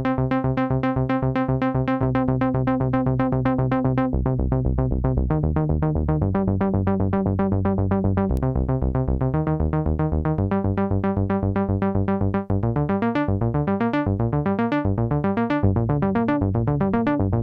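Analog polyphonic synthesizer playing a fast repeating sequenced pattern over a bass line whose notes change every second or two, with the notes moving about more near the end.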